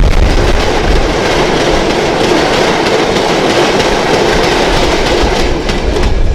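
Train rolling past close by: the steady running noise of its wheels on the rails, which falls away sharply at the very end.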